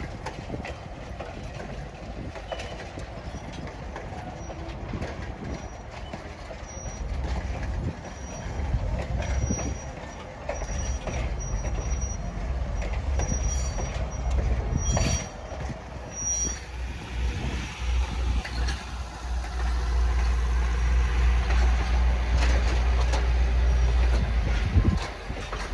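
Train moving on the rails, with a deep rumble that grows louder in the second half. Short high-pitched wheel squeals come and go through the first half.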